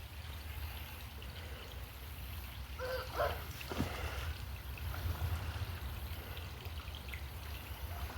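Shallow creek water trickling and running, over a steady low rumble. A short pitched voice-like sound comes about three seconds in.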